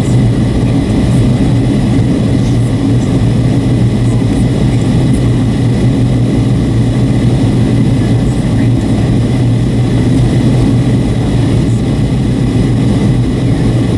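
Steady cabin drone of a Boeing 757-300 airliner on approach: jet engine and airflow noise heard inside the passenger cabin, with a strong low hum and a faint high whine.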